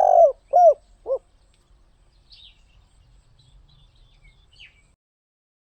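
Spotted dove cooing: the last three low, arched notes of a phrase in about the first second, followed by faint high chirps of small birds. The sound cuts off about five seconds in.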